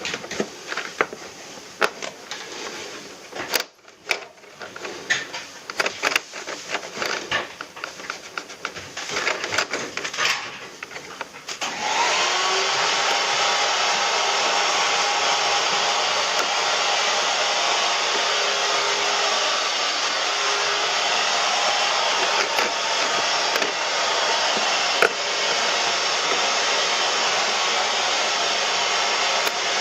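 Irregular clatter and knocks of parts being handled. About twelve seconds in, a motor-driven cleaning machine starts with a brief rising whine and then runs with a steady, loud rushing noise.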